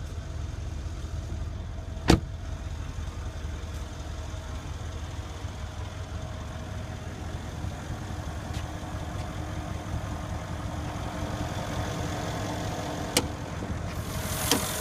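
A Mercedes-AMG 5.5-litre V8 bi-turbo engine idling steadily. A sharp click sounds about two seconds in, and two more near the end.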